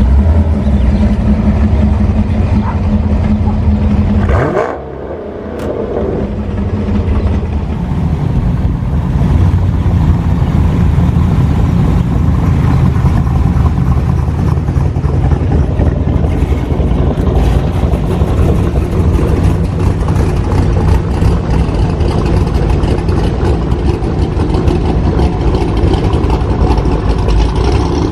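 Car engines running loud and steady. About five seconds in the sound briefly dips and an engine's pitch rises as it revs.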